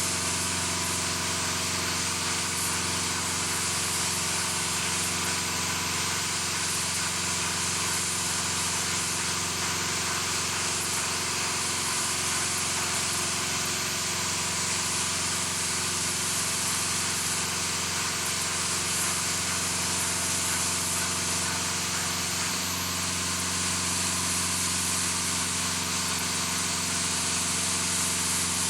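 A steady mechanical drone, with a low hum under an even hiss, that does not change.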